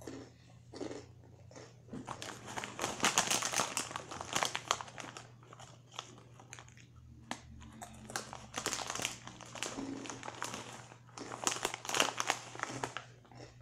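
Cheetos being crunched and chewed close to the microphone, in three spells of rapid crackling with quieter gaps between, over a low steady hum.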